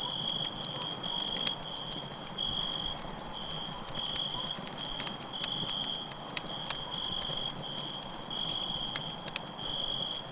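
Crickets chirping in short high trills, about one a second, over a crackling campfire with a steady hiss and scattered sharp pops.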